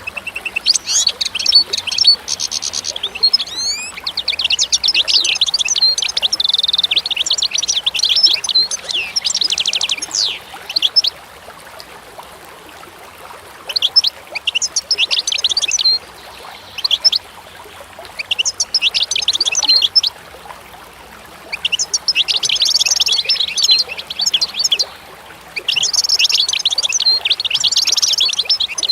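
Small songbirds singing in rapid, twittering high-pitched trills, dense for the first ten seconds or so and then in phrases of a few seconds with short pauses between, over a faint steady background hiss.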